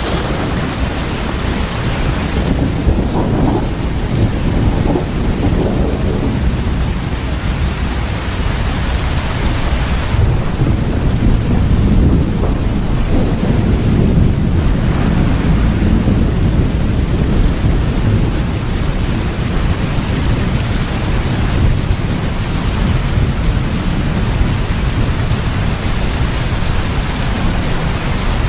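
Steady rain with a low rumble underneath that swells and fades.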